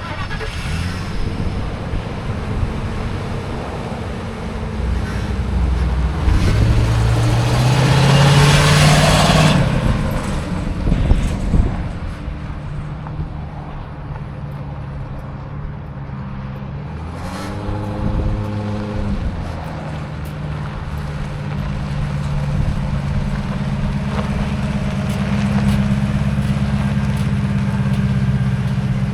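The engine of a 2001 Ford F250 pickup running, its pitch rising as it revs or accelerates about six to nine seconds in and again briefly near the eighteen-second mark, otherwise running steadily.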